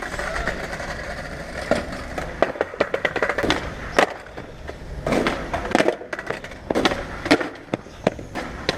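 Skateboard wheels rolling, broken by repeated sharp wooden clacks of the board: tail pops, landings and the board slapping the ground. The clacks come in clusters every second or two.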